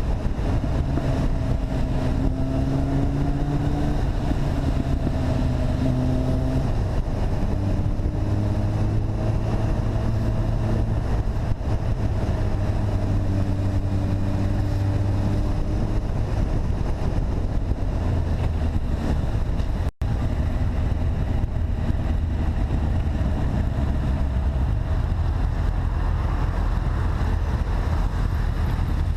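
Engine of a motorcycle or quad running under way, its pitch stepping up and down with engine speed, under a steady rush of wind and road noise. The sound cuts out for an instant about two-thirds of the way through.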